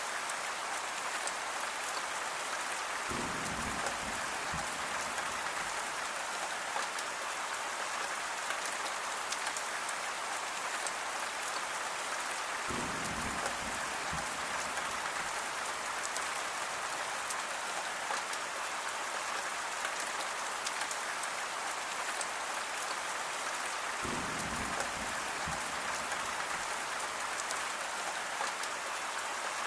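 Steady rain falling, an even hiss of many drops. A short low rumble comes in three times, about ten seconds apart.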